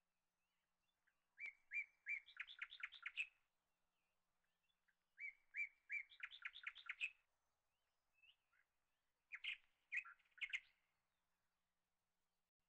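A small bird chirping in three short phrases of quick, high notes, each about two seconds long, with near silence in between.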